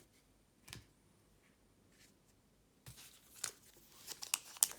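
Foil wrapper of a Pokémon TCG booster pack being handled, crinkling and crackling. After a near-quiet start with a single click, sharp crackles build up over the last two seconds.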